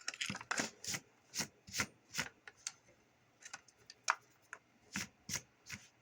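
About a dozen short scrapes and knocks at uneven spacing: hands handling and working the radio's housing around the freshly drilled jack hole.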